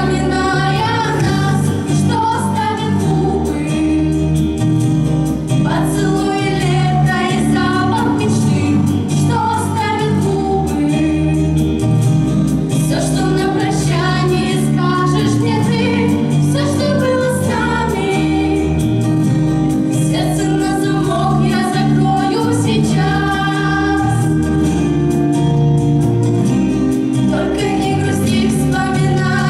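A song sung by a small group of voices over instrumental accompaniment.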